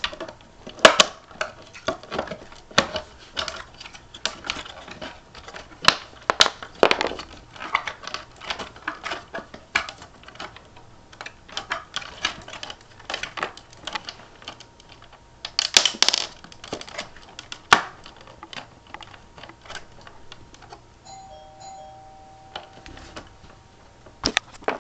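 Irregular plastic clicks, knocks and rattles as the housing of a cordless stick vacuum is worked apart by hand and its motor pulled free. Near the end, a short steady electronic beep sounds twice.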